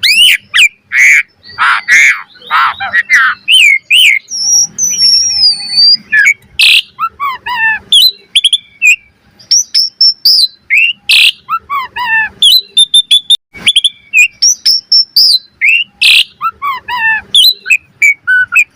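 Jalak suren (pied starling) in full song: a loud, continuous string of varied phrases, with whistles, down-slurred notes, quick chirps and harsh rasping notes in quick succession.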